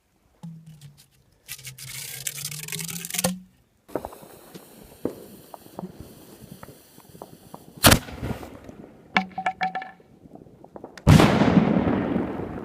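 Homemade fireworks: a few seconds of loud hissing, then scattered crackles and pops, a sharp bang about 8 seconds in, and a heavy explosion near the end that rumbles away.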